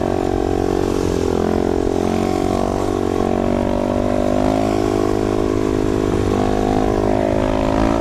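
Motorcycle engine running at fairly steady revs, its pitch rising and falling slightly a few times.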